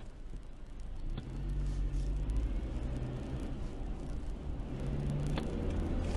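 Car engine and road rumble, getting louder about a second in and then holding steady, with a few faint clicks.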